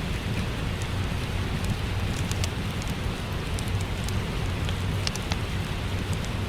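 Steady rain hissing, with a low rumble underneath, mixed with a crackling wood fire whose small sharp pops and snaps come irregularly, a few together about five seconds in.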